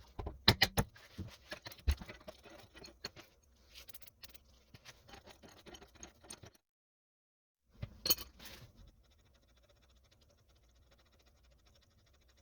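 Metal tools and parts clinking and clanking during work on a car's front strut, with a cluster of sharp clanks about half a second in, another about two seconds in, light rattling and scraping between, and one more clank about eight seconds in.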